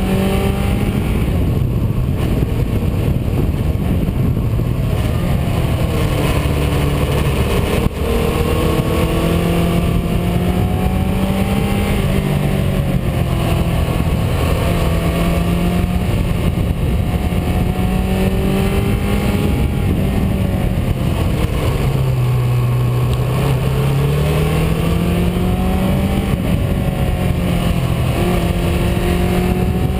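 Car engine running steadily with road noise, its pitch dipping and climbing again several times as the revs fall and rise. A short click about eight seconds in.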